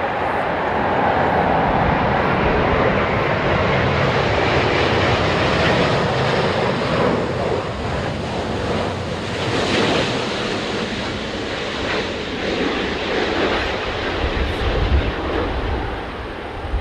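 Jet noise of an Airbus A350-900 with Rolls-Royce Trent XWB engines on landing, a steady rushing noise that swells to its loudest about ten seconds in, with wind buffeting the microphone.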